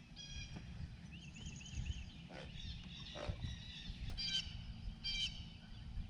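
Birds calling: a run of four quick, arched chirps about a second in and sharper, rapid calls around four and five seconds in, over a low steady rumble.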